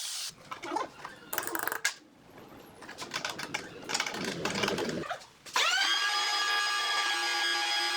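Irregular scraping and knocking of woodworking for about five seconds, then an electric power tool's motor spins up and runs at a steady speed with a whine.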